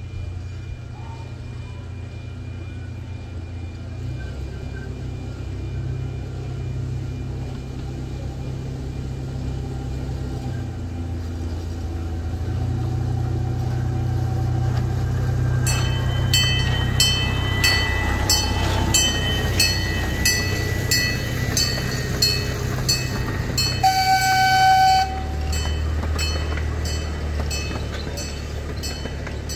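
Miniature park train's engine running as the train approaches and passes, growing louder, with wheels clicking over the rail joints about twice a second. It gives one short horn toot near the end as it goes by, then the sound fades.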